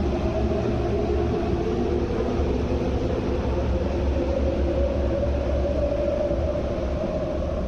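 MTR Airport Express train running past a station platform without stopping: a steady loud rumble with a humming tone over it.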